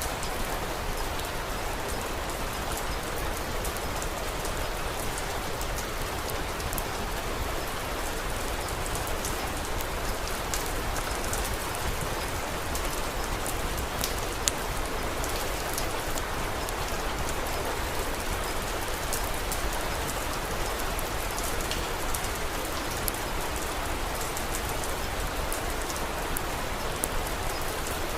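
Steady, even rain falling and pattering on a surface. Scattered sharp clicks run through it, with one louder snap about halfway through.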